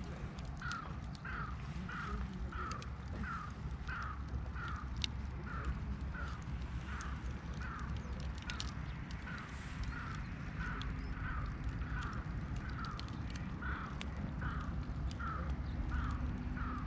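A bird calling over and over, short falling notes about twice a second, starting just after the start, over a steady low rumble with scattered faint clicks.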